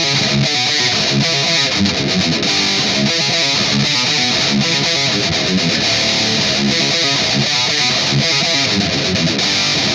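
Electric guitar played through distortion, a riff of quickly changing notes and chords that runs on without a break.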